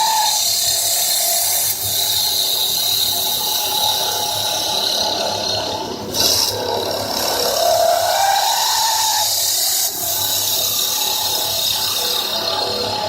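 CNC wood lathe cutting a wooden bowl: a steady, hissing cutting noise with a tone that slowly rises and falls as the tool travels along the workpiece.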